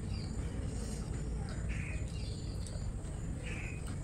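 A bird calling repeatedly, a short falling call about every two seconds, over a steady low hum.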